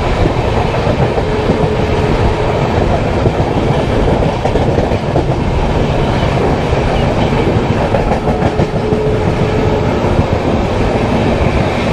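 Passenger train running at speed, heard from an open coach door or window: a loud, steady rumble and clatter of the coach wheels on the rails.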